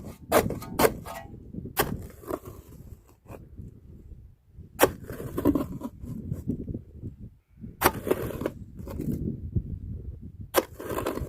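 Metal shovel chopping and scraping into hard, wet sandy ground. A quick run of strikes comes near the start, then single strikes about every three seconds, each followed by a short scrape.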